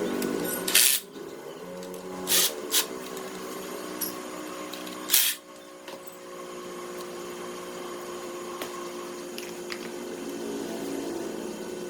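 A small power tool's motor whirring steadily, broken by three short, loud hissing bursts in the first half.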